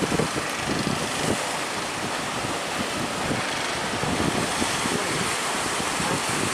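Heavy sea surf rushing and breaking, with wind buffeting the microphone.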